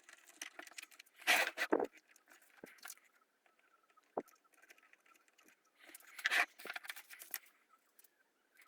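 Hands handling parts at close range: two short spells of rustling and light clicking, with a single sharp tap between them.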